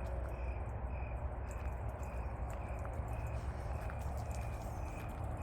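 Crickets chirping in an even rhythm, about two chirps a second, over a steady low rumble.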